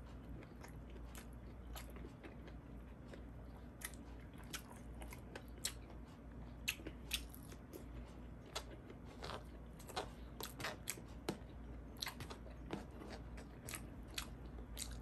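A person chewing and eating close to the microphone: many short, irregular mouth clicks and small crunches.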